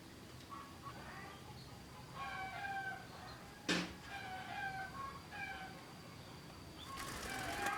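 A chicken calling in a run of short, repeated pitched phrases. A single sharp knock comes a little before halfway, and a brief burst of rustling noise comes near the end.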